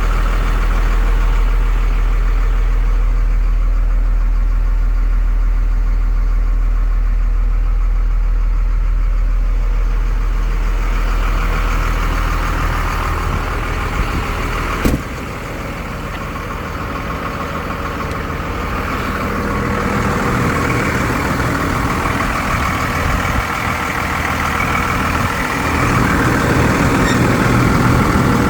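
A Ford F650 truck's 5.9 Cummins diesel engine running steadily. About halfway through there is a sharp click, after which the sound changes character and grows gradually louder toward the end.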